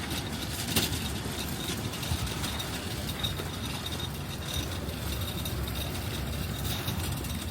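Steady low rumble, with one short click about a second in.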